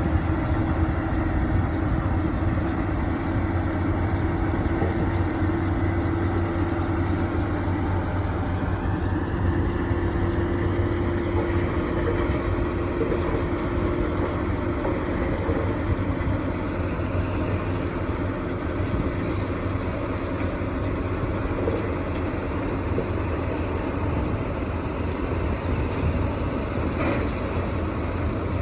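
Heavy diesel engine running steadily, a continuous low rumble with a held mid-pitched drone.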